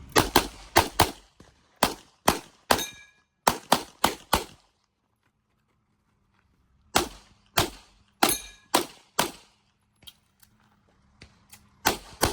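Rapid gunfire on an IPSC stage: about eleven sharp shots in quick pairs and strings, a pause of about two seconds, then more strings of shots, with a few fainter pops before a last quick burst near the end.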